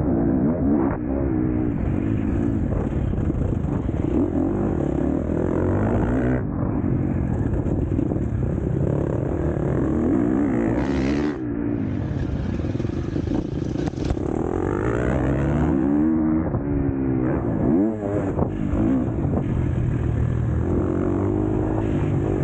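KTM SX-F four-stroke motocross bike engine ridden hard on track, revving up and dropping back again and again as the rider opens and shuts the throttle through the gears.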